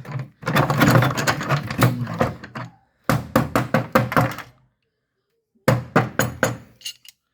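Rapid, sharp knocking in three runs, with short pauses between: a stuck part of a Lebed washing machine's activator drive being knocked at to drive it out. The part does not come loose.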